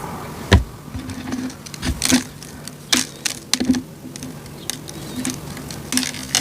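Cornstarch crunchies being crushed: a run of irregular, crisp cracks and crackles with a soft crumbling between them. The sharpest crack comes about half a second in.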